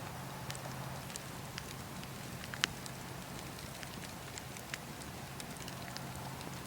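Wood campfire crackling: scattered sharp pops and snaps, the loudest about two and a half seconds in, over a steady low background.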